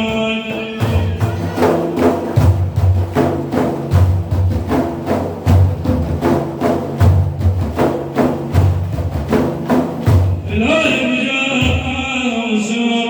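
Percussion break in a madih praise song: a drum beats a quick, driving rhythm of deep and sharp strokes. The singing stops just under a second in and comes back near the end.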